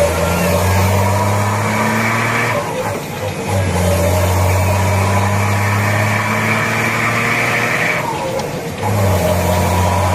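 BMC Pro 625 truck's Cummins diesel engine running loud through a 'wolf' exhaust, pulling under load with a faint climbing whine. The note breaks off briefly twice, about three and eight seconds in, and comes back each time, as between gear changes.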